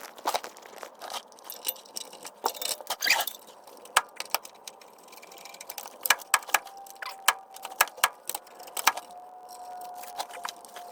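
Irregular small metallic clicks, clinks and light scrapes of hand work on a console shifter's cable, its retaining clip and adjuster. From about six and a half seconds a faint steady high tone also runs under the clicks.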